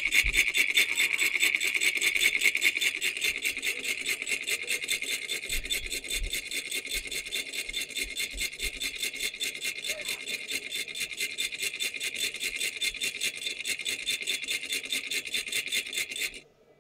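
Solenoid engine running, its plunger and contact clattering in a fast, even rhythm; it cuts off suddenly near the end.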